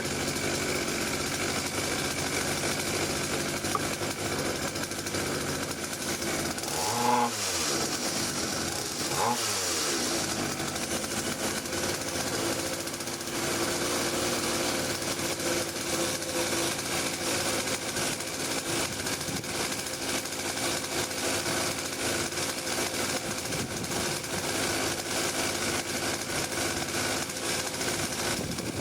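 A 49cc two-stroke mini pit bike engine running loud and steady, set a little too rich. The engine speed swings briefly twice, about seven and about nine seconds in.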